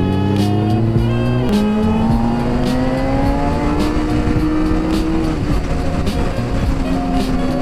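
Honda CBR600RR inline-four with a Yoshimura exhaust accelerating under way, its pitch rising steadily for about five seconds, then falling back about five seconds in. Background music runs underneath.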